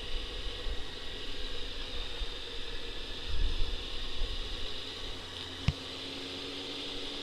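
Wind rushing over a riding motorcycle, with low rumbling gusts and the faint hum of the Honda CBR600 sport bike's engine beneath it; one sharp click a little over halfway through.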